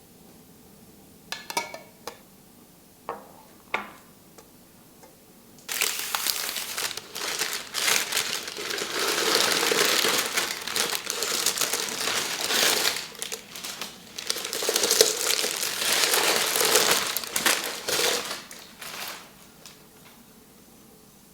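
Crinkly material being crumpled and handled: a few short rustles, then about thirteen seconds of continuous crinkling that dies away near the end.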